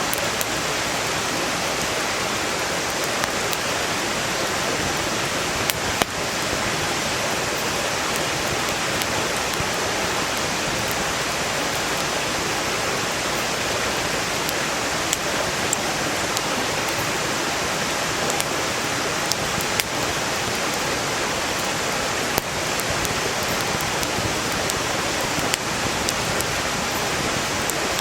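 A mountain stream rushing steadily, with a few sharp pops and crackles from burning firewood scattered through it.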